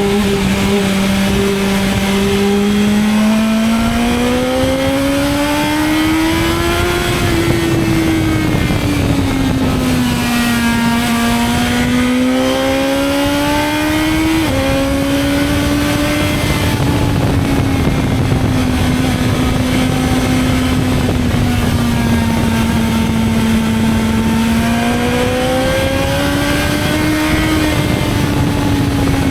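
BMW S1000XR motorcycle's inline-four engine under way, its pitch rising and falling with the throttle, with a sudden drop in pitch about halfway through as from an upshift. Underneath is a steady rush of wind and road noise.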